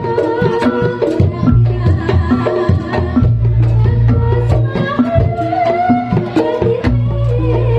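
Reog Ponorogo gamelan music: hand drums beating quickly under ringing, pitched gong-chime percussion. A wavering melody line comes in about five seconds in.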